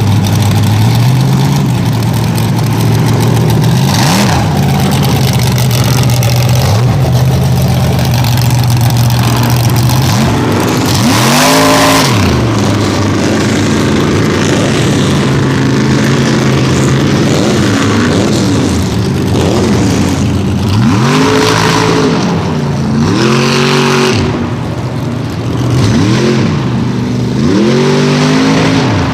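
GMC Yukon mud truck's engine held at high revs, then revved up and down again and again, each rev rising and falling in pitch; the revs come about every two seconds in the second half.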